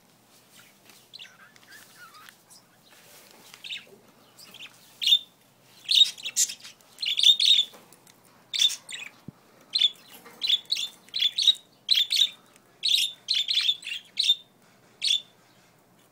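Pet budgerigars chirping: faint, scattered chirps at first, then a busy run of loud, short chirps from about five seconds in.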